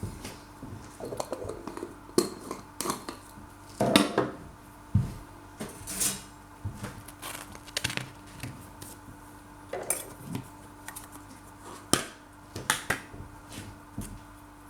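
Kitchen clatter of a table knife and plates: irregular clinks, knocks and short scrapes of cutlery on crockery as the toast is handled.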